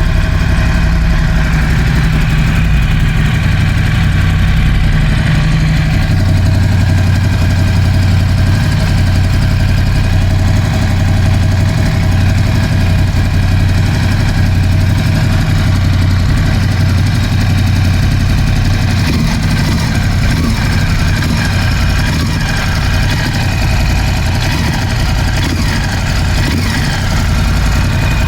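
Ducati Scrambler 1100's air-cooled L-twin engine idling steadily, with the piston slap that the owner hears even after replacing the horizontal cylinder and piston.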